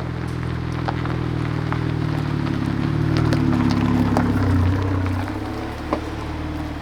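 A vehicle engine running, with small crackling clicks like gravel under tyres. It grows louder for about four seconds, then eases off.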